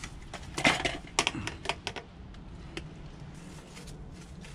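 A short scrape followed by a handful of light clicks and taps over the first three seconds, from handling the PVC pipe and tools. After that only a faint steady background remains.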